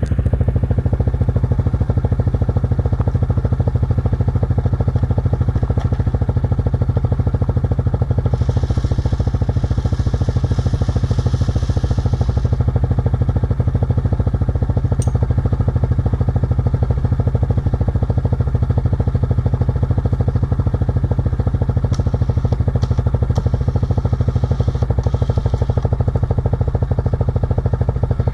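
Yamaha Grizzly 700 ATV's single-cylinder four-stroke engine running at a steady speed under way, with a hiss rising over it twice for a few seconds.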